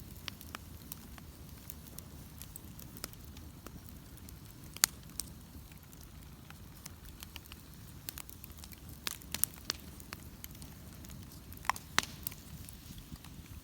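Bonfire burning: a steady low rush of flame with scattered sharp crackles and pops, the loudest pops about five seconds in and again near the end.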